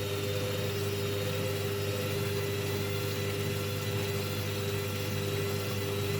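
Hoover Baby washing machine running its first rinse: a steady motor hum with a higher whine that drops in and out.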